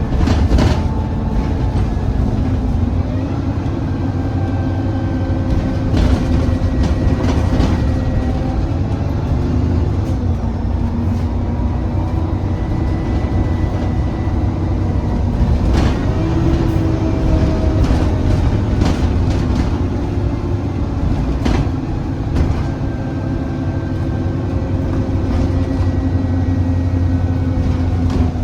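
Alexander Dennis Enviro400 diesel double-decker bus (E40D) driving along: its engine note steps up and drops back several times as it changes speed and gear, with a thin high whine and scattered knocks and rattles.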